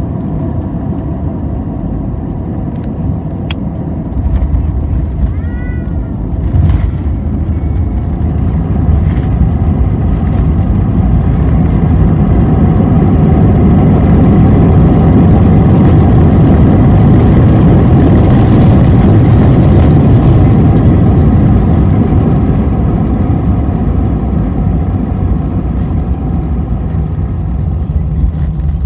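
Airliner landing: a touchdown thump about four seconds in, then engine noise swelling to a loud roar for several seconds, typical of reverse thrust braking on the runway, before easing off as the plane slows.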